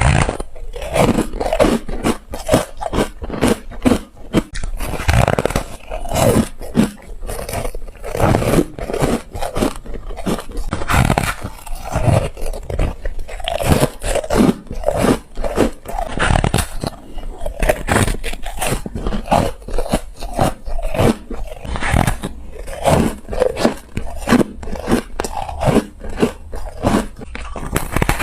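Ice being bitten and crunched close to the microphone: one crisp crunch after another, several a second, without a break.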